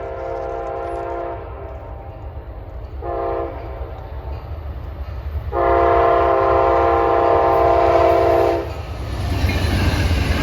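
Amtrak P42DC locomotive's multi-chime air horn sounding over the low rumble of the approaching train. A held chord ends about a second in, followed by a short blast and then a long blast of about three seconds, the close of a grade-crossing signal. Near the end the rumble and rail clatter grow as the train comes by.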